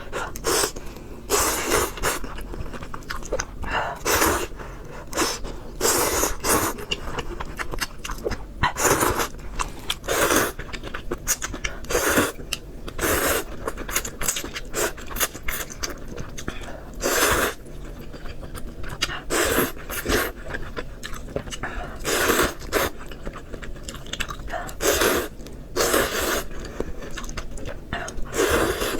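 Close-miked eating of spicy noodles with pork: chewing and slurping in short, noisy bursts every second or two.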